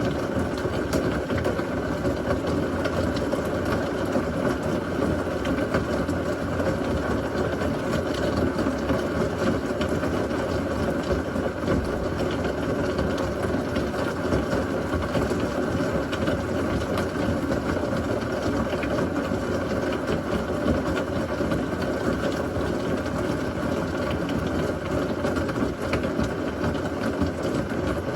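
Heavy rain falling steadily in a thunderstorm, a dense, even downpour with no thunderclap.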